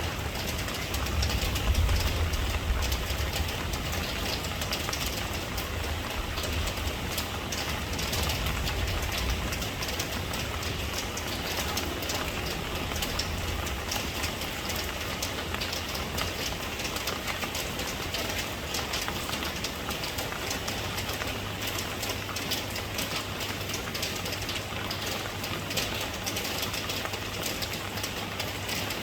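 Steady rain falling, a dense patter of drops, with a low rumble underneath for the first several seconds that then fades out.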